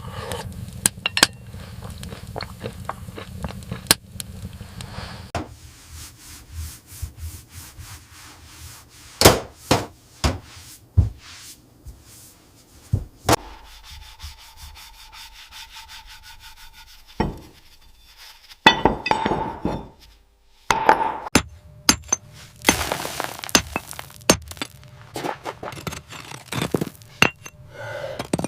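Hands working with wood and small objects: scattered knocks, taps and clicks, with a couple of longer stretches of rubbing or scraping in the second half.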